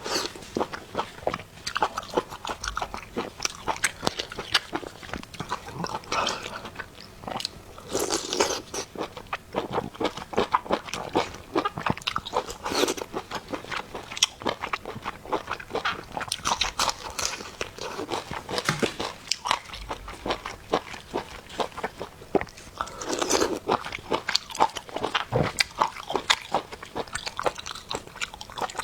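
Close-miked eating sounds: chewing and biting of food with a dense, irregular run of crisp crunches.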